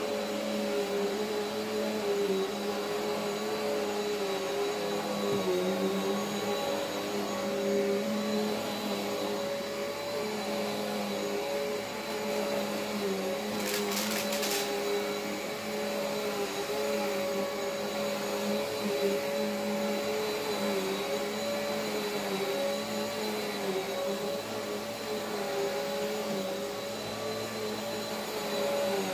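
Eureka AirSpeed Exact Pet upright vacuum running steadily over carpet: a constant motor hum with a thin high whine. About halfway through there is a brief clicking rattle.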